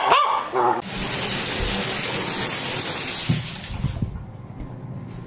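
Water running into a bathtub. It starts suddenly about a second in, as a steady rushing hiss, and dies down after about three seconds.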